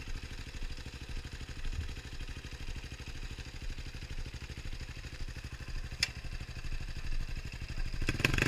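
Trail motorcycle engine idling steadily, with a single sharp click about six seconds in; the sound grows louder near the end.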